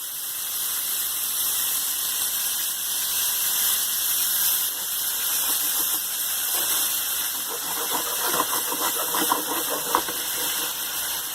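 Food sizzling in a hot frying pan: a steady hiss, with a few sharp peaks between about 8 and 10 seconds in.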